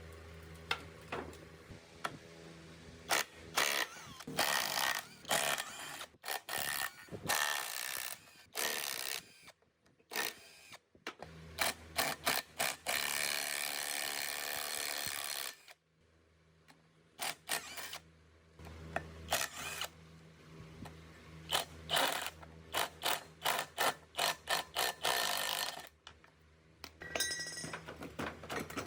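Tool work on metal machine parts: runs of sharp clicks and knocks, with a steady, noisy spell of about four seconds near the middle.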